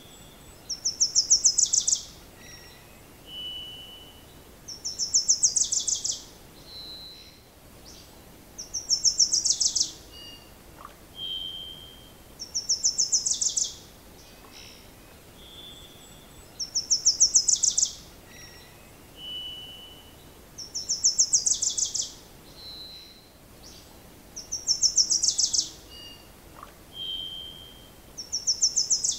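A songbird singing a short, rapid high trill of about a second, repeated at an even pace about every four seconds, with brief high whistled notes from other birds in between.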